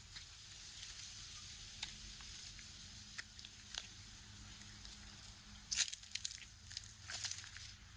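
Footsteps crunching on grit and debris underfoot, irregular, with the loudest cluster about six seconds in, over a steady low hum.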